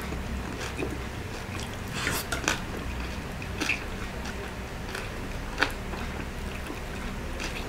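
A person chewing a mouthful of food with wet mouth sounds, over a low steady hum. A few sharp clicks stand out, the loudest just before six seconds in.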